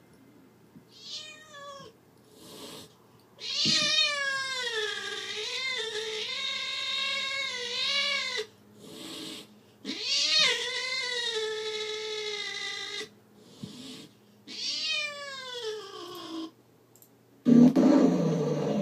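Recorded cat yowls played through a computer speaker: a short call, then three long yowls whose pitch wavers up and down. Near the end comes a loud, rough, noisy burst without a clear pitch.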